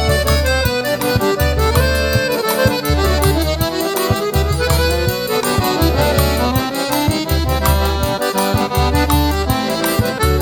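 Forró pé de serra instrumental passage: an accordion plays a busy melody over a steady, repeating low beat with light percussion ticking on top.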